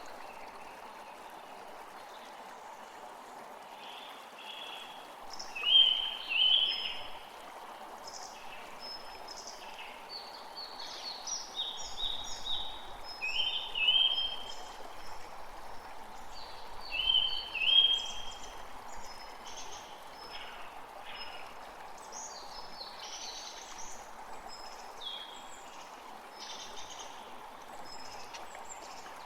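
A forest creek flowing steadily, with several songbirds calling and singing over it in short repeated phrases; the loudest calls come in pairs about six, fourteen and eighteen seconds in.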